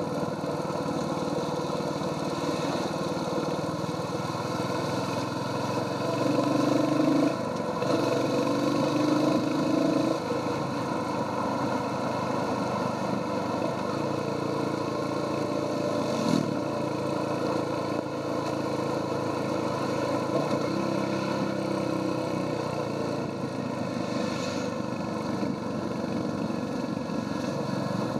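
Royal Enfield Hunter 350's 349 cc single-cylinder engine running through its stock exhaust under way. For a few seconds about a quarter of the way in, its note rises and gets louder.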